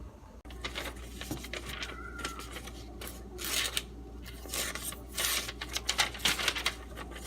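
A steel knife making a run of short, irregular rasping strokes, bunched in the second half.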